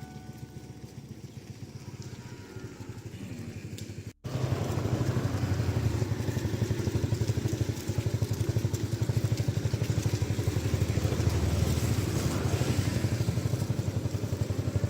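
A small engine running steadily with a fast, even beat. It is quieter at first, then much louder after an abrupt cut about four seconds in.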